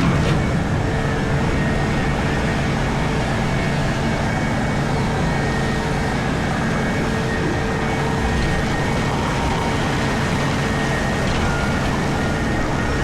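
Komatsu PC4000 mining excavator running, heard from inside its cab: a steady machinery drone with a few held tones underneath, unchanging throughout.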